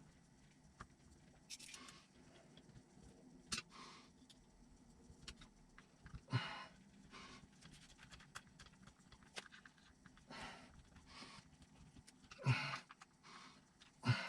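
Faint workbench handling noise: scattered small clicks and a few brief rustles of hands working with small parts and tools during model assembly.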